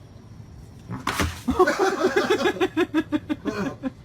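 A sudden noisy thump, then a dog giving a rapid run of short, high yelps, about five a second.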